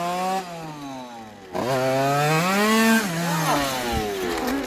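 Small two-stroke motorcycle engine with a freshly ported cylinder, revving high as the bike rides past. It climbs and eases briefly, then comes on harder about one and a half seconds in, rising to its loudest and highest pitch about three seconds in before falling away.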